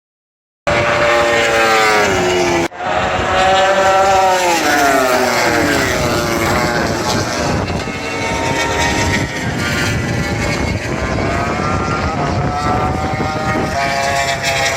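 MotoGP race bikes' 1000 cc four-cylinder engines screaming past at top speed, one after another. Each engine note drops sharply in pitch as the bike goes by, and later a note climbs as a bike shifts up on its way in.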